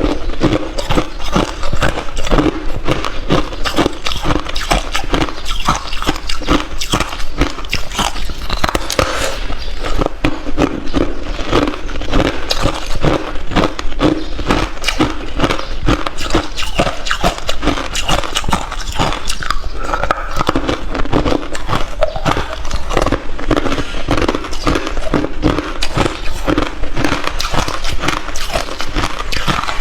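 A person biting and chewing ice, a dense unbroken run of sharp crunches and cracks.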